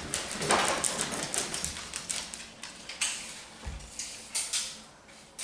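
Irregular light clicks, taps and scrapes of hand work, thick in the first few seconds and thinning out toward the end.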